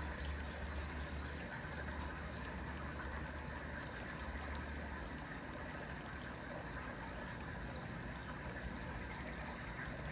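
Outdoor backyard ambience: a steady hiss with a low rumble that fades about halfway through, and faint short high chirps about once a second.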